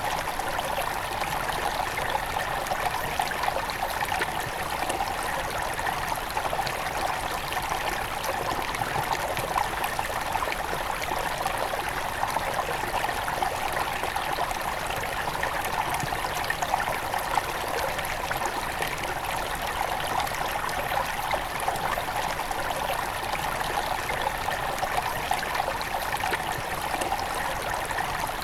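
A small mountain river at its headwaters, flowing and splashing steadily over rocks in a continuous babble.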